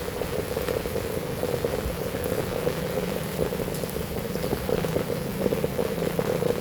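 Heavy rain falling steadily, a dense patter of drops. A low steady hum comes in about halfway through.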